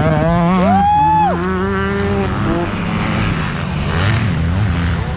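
Motocross bike engine revving up, held high, then the throttle chopped about a second in, after which lower engine sound from bikes on the track continues.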